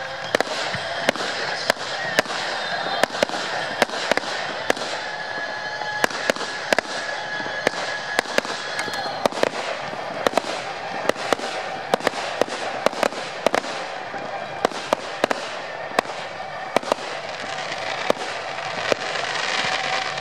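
Fireworks display: irregular sharp bangs and cracks, about two a second, over a continuous rushing background.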